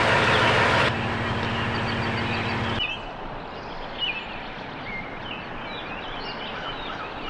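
A steady low mechanical hum for about the first three seconds, then a sudden change to outdoor ambience with birds chirping.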